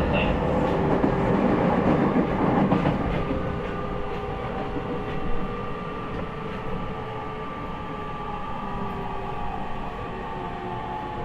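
E501 series EMU running, heard from inside motor car MoHa E501-8: wheel-on-rail rumble with a few rail-joint clicks in the first seconds. Under it, the Toshiba IGBT inverter and traction motors whine with tones that slowly fall in pitch and level as the train brakes for a station stop.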